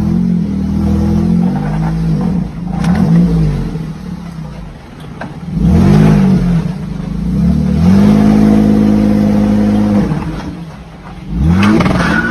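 Dodge Charger engine revving hard in repeated surges, its pitch climbing and dropping each time. About two-thirds of the way in it is held at high revs for around two seconds before falling away.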